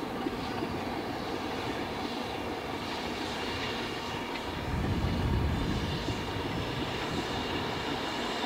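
A locomotive cavalcade passing at low speed, headed by BR Standard Class 4 4-6-0 steam locomotive No. 75069 with diesel locomotives coupled behind. The sound is a steady train rumble that swells louder about five seconds in.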